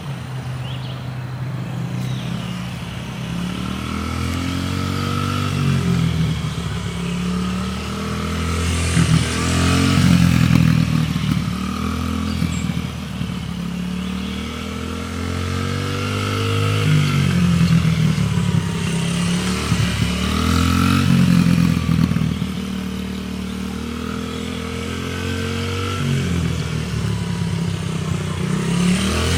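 Small dirt bike engine running, its pitch rising and falling again and again as it speeds up and slows down, growing louder twice as it comes close.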